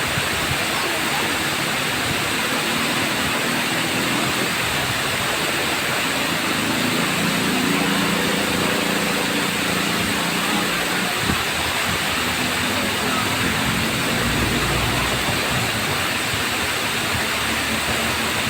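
Tamaraw Falls waterfall rushing steadily, a dense even roar of falling water. A faint low hum sits under it for several seconds in the middle.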